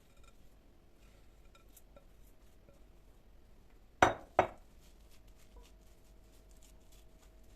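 Two sharp clinks of dishes knocking together or being set down, about four seconds in and less than half a second apart, each ringing briefly; faint small clicks of handling otherwise.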